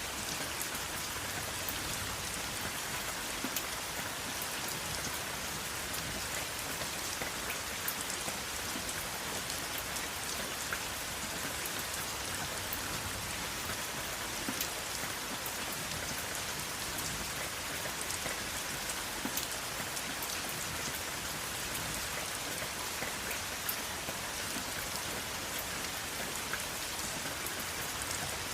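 Steady rain falling: a constant hiss with many scattered individual drops ticking through it.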